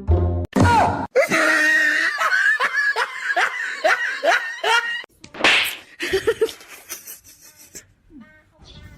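A person laughing in a run of quick, repeated bursts, then a short hissing burst and quieter laughs that fade out near the end.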